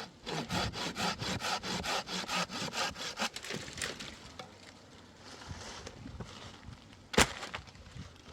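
Hand saw cutting through wood with quick back-and-forth strokes for about three seconds, then slower, quieter scraping. A single sharp crack near the end, likely the wood splitting or snapping.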